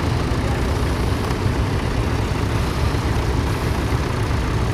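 Vintage tractor engine running steadily: a continuous low rumble.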